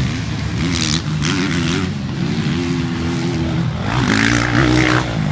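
Dirt bike engine revving, its pitch climbing and falling again and again as the throttle is worked, with brief bursts of higher hiss.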